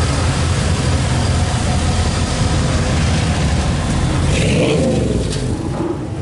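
Car engine running nearby with a low, steady rumble that fades after about four and a half seconds.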